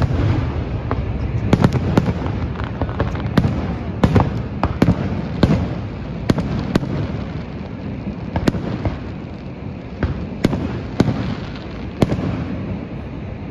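Fireworks display: shells bursting in a rapid, irregular series of sharp bangs, about one or two a second, over a continuous low rumble.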